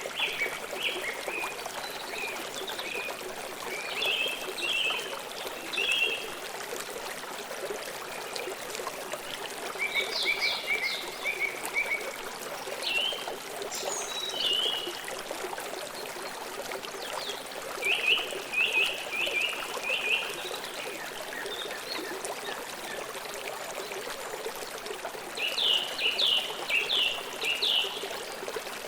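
River water flowing steadily over stones, with birds chirping in short, rapid series of high notes every few seconds, the loudest run near the end.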